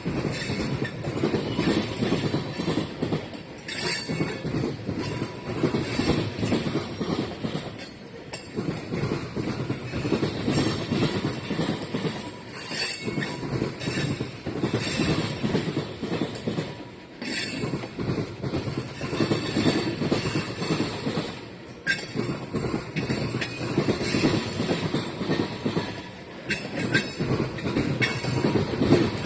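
Freight train cars rolling past close by, their wheels clacking over rail joints with a rhythmic rise and fall and some thin wheel squeal.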